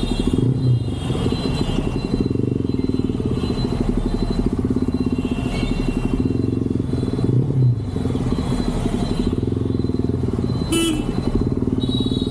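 Motorcycle engine running steadily under way, with a rapid, even firing pulse. There is a brief sharp click about eleven seconds in.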